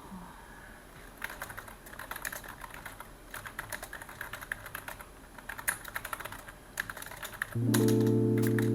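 Computer keyboard typing in quick, uneven runs of key clicks with short pauses. About seven and a half seconds in, louder music with sustained keyboard-like notes starts and covers the end.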